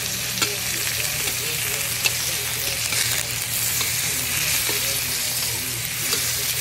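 Whole prawns with spring onion sizzling in hot oil in a wok, stirred with a metal spatula that clicks and scrapes against the pan a few times.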